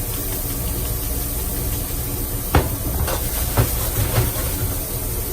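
Steady low hum and hiss of a food truck kitchen's running equipment, with a few short knocks, the sharpest about two and a half seconds in.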